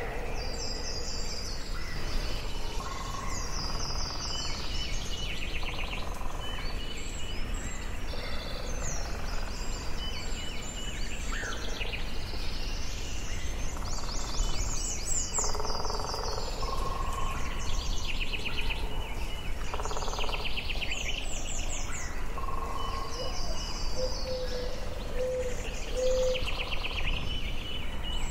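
Forest birds singing and calling over each other: quick high trills and chirping phrases repeating every second or two, with some lower, steadier notes among them, over a constant low background noise.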